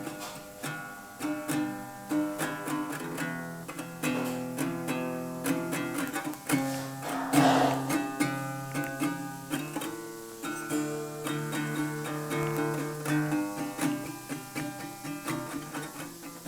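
Guitar being practised: notes and chords picked one after another, with a louder, noisier stroke about seven seconds in.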